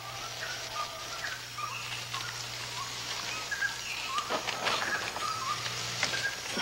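Short chirping animal calls repeating every half second or so, with a few sharp rustles or knocks about four to five seconds in.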